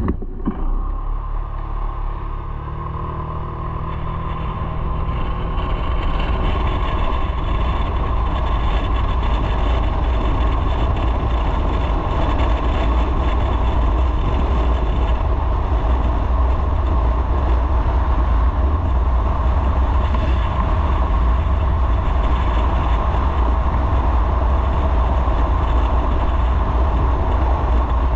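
Motorcycle pulling away, its engine note rising over the first few seconds after a short click at the start, then riding on steadily with continuous engine and road noise.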